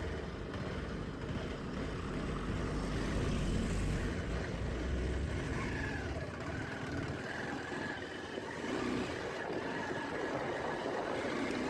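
Motorcycle engine running while riding, with a steady low rumble that eases off about halfway through.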